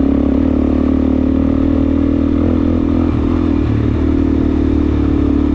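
Suzuki DR-Z400S single-cylinder four-stroke dirt bike engine running steadily under light throttle while riding, its pitch wavering briefly a little past halfway.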